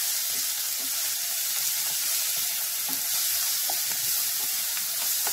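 Drumstick pieces, onion and green masala paste sizzling in oil in a pan while being stirred with a spatula: a steady sizzle with light scrapes and taps.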